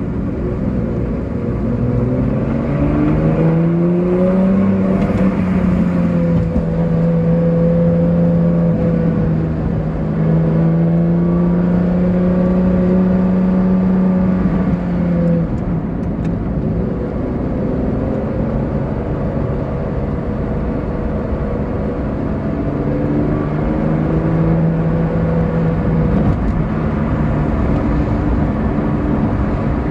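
Ferrari Enzo's V12 engine heard from inside the cabin while driving: its pitch rises over the first few seconds, holds steady, drops about halfway through, then settles into a steady lower note.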